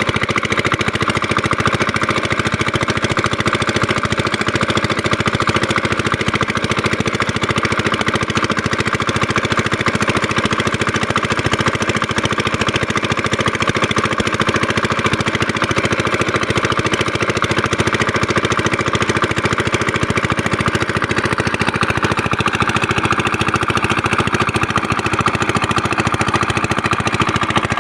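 5 hp diesel engine driving a water pump, running steadily with a rapid, even beat.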